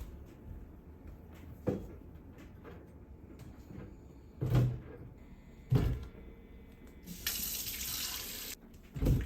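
Kitchen sink tap running for about a second near the end, with a few separate knocks and clunks of things being handled around it.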